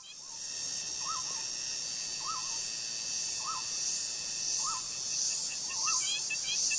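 Tropical forest ambience: a bird repeats a short rising-and-falling call about once a second over a steady high buzz of insects. Near the end, quick twittering chirps join in.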